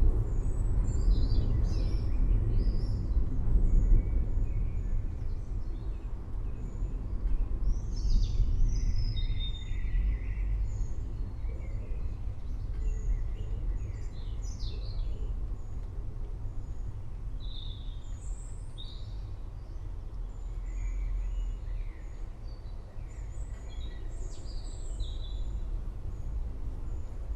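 Wild birds chirping and calling in short scattered phrases, several at once, over a steady low rumble.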